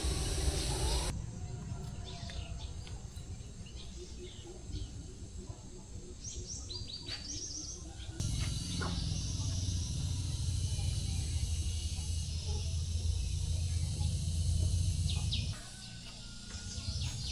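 Small birds chirping in short high calls, several in quick succession in the first half and a few more near the end. Under them runs a steady low rumble whose level jumps abruptly a few times.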